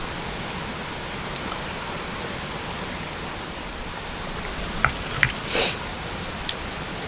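Steady hiss of rain falling. About five seconds in come two small sharp clicks and a brief rush of noise.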